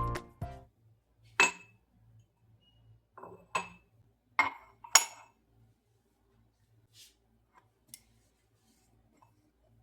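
Glassware and dishes being handled, clinking sharply about four times in the first five seconds, then a couple of fainter taps.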